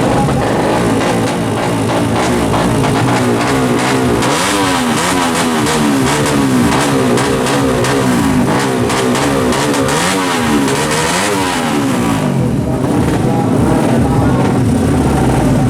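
Tuned two-stroke Yamaha F1ZR drag-bike engine running loud. In the middle it is revved up and down in quick repeated throttle blips, then it settles to steadier running near the end.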